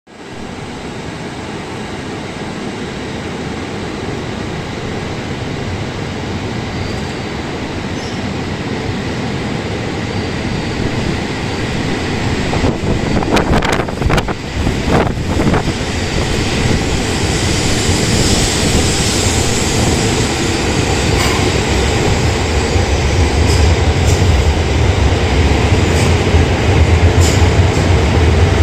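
Coupled Hayabusa–Komachi Shinkansen train pulling out, its running noise growing steadily louder as it gathers speed. A cluster of sharp clicks comes about halfway through, and a deep rumble builds over the last ten seconds.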